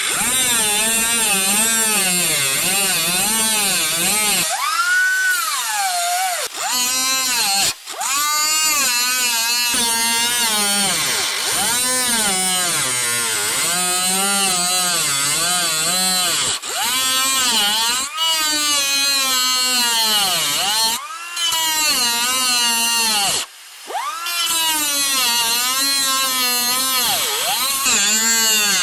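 Power drill cutting into rusted rocker-panel sheet metal, drilling out spot welds. It runs in long bursts with its pitch sagging and rising as the bit bites under load, and it stops briefly several times.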